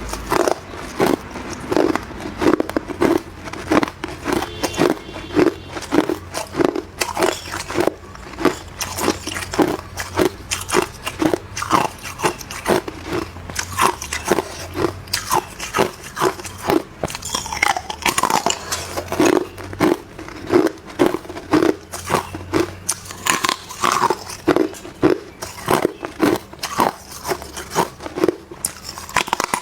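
Hard clear ice being bitten and chewed, a steady run of crisp crunches about two a second.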